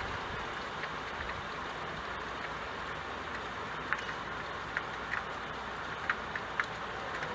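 Steady rain falling, with a few sharp drip ticks standing out in the second half.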